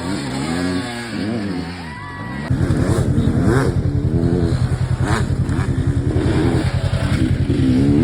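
Dirt bike engines revving up and down as they are ridden. About two and a half seconds in, the sound gets louder as a deeper, rapidly pulsing engine note joins in.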